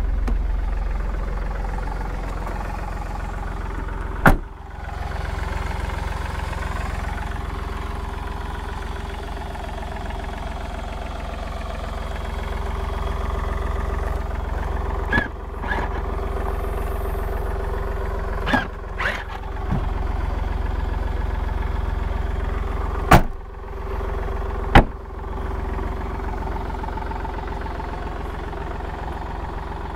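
Smart fortwo CDI's small three-cylinder diesel engine idling steadily, broken by several sharp clicks.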